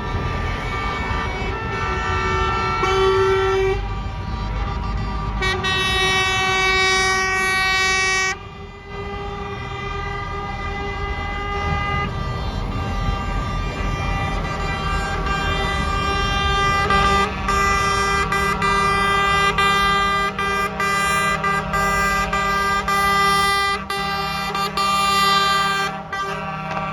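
Trucks sounding their horns in long, overlapping blasts over the rumble of their engines, with a brief break about eight seconds in.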